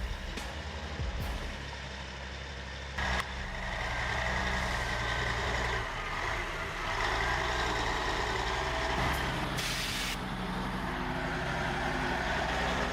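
Heavy truck engine running steadily, with a brief sharp burst about three seconds in and a short hiss of released air shortly before the end.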